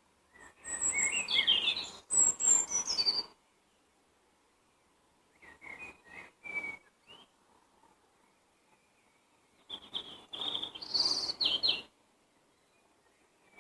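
A songbird singing three short song phrases, each a quick run of high, changing notes lasting about two seconds, with pauses of a few seconds between them.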